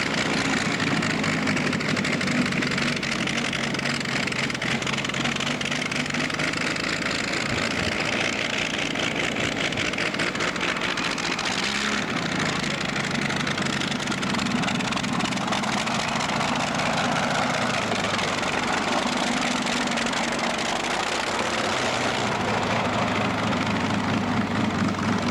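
Big-horsepower tractor-pull engine running steadily, its pitch shifting slightly about halfway through and again near the end. It is not running happily, and the driver abandons the pull.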